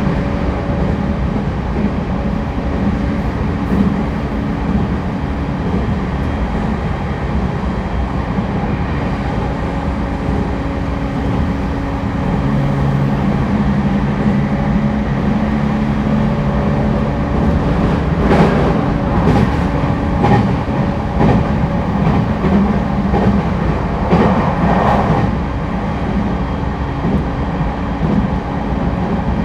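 Interior running sound of an E231-1000 series electric commuter train at speed: a steady rumble with a low motor hum. A stack of humming tones sounds for a few seconds mid-way, and the wheels click repeatedly over rail joints in the latter half.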